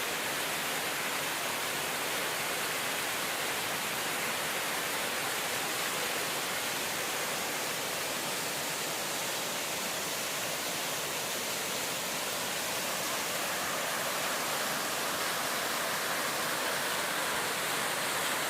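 Steady rush of falling water from a roadside waterfall or cascade, an even hiss with no breaks or changes.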